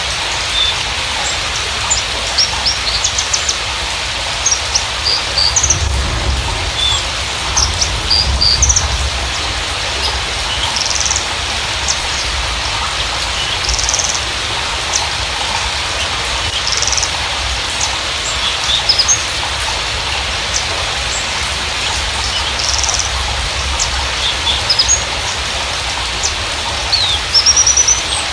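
Javan bushlark (Mirafra javanica parva) song: scattered short high chirps, whistles and quick trills over a steady hiss. It is a lure recording of the kind played to get a captive bushlark that has stopped singing to sing again.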